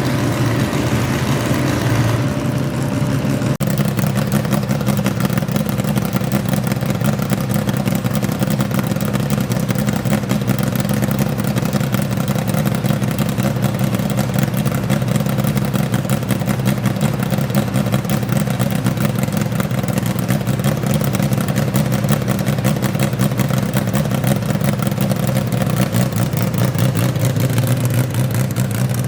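Modified garden pulling tractor's engine running loud and steady. Its tone changes about three seconds in, then holds.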